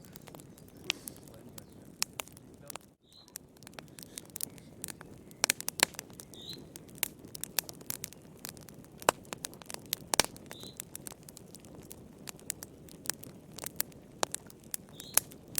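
Wood fire crackling in a fireplace: irregular sharp pops and snaps over a steady low hiss of burning, with a brief drop-out about three seconds in.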